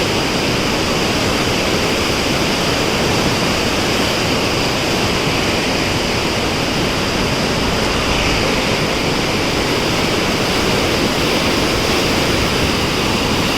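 Heavy flood flow of the Koshi River pouring through the Koshi Barrage's gates at about 200,000: loud, steady rushing white water.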